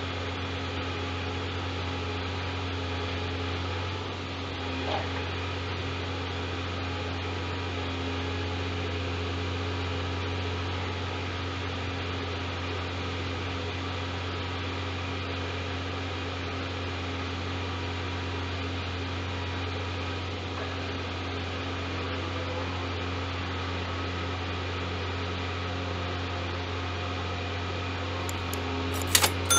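Scania G410 truck's diesel engine running at a steady, unchanging speed as a low drone, with a few sharp clicks near the end.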